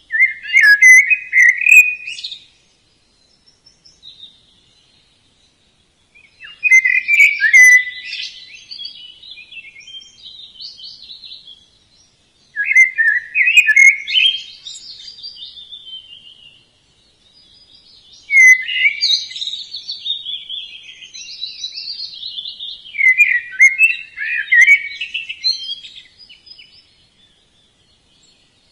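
Budgerigars chattering and chirping in rapid warbling bursts of a few seconds each, with silent pauses between the bursts.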